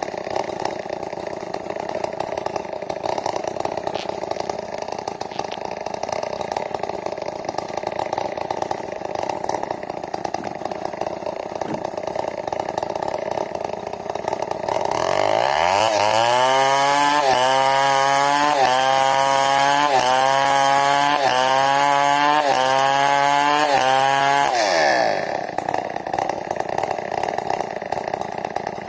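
New West 070 two-stroke chainsaw running at low speed, then about halfway through revving up to full throttle and holding there for about ten seconds with its pitch wavering slightly. It then drops back to low speed.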